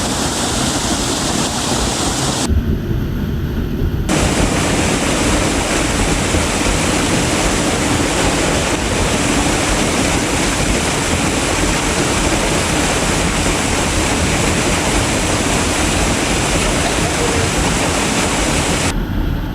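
Waterfall's loud, steady rush of falling water, close by. About two and a half seconds in, the higher part of the rush briefly drops away for a second and a half.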